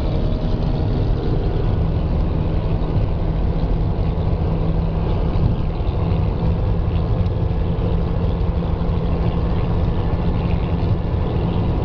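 Monster truck engine running, loud and steady, with a heavy low rumble.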